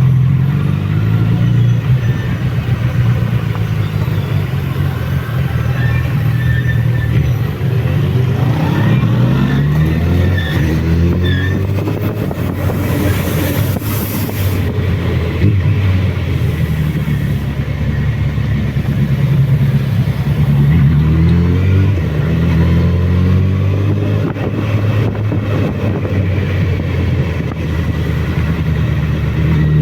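Suzuki Bandit motorcycle's inline-four engine running on a downhill ride. Its pitch rises and falls repeatedly as the throttle opens and closes and the gears change.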